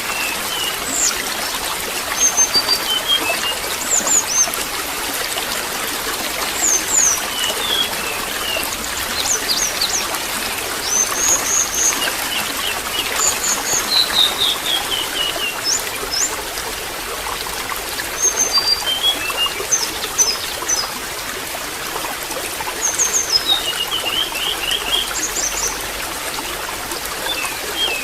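Water trickling steadily, with small birds chirping throughout in short high calls, including a couple of quick falling runs of notes.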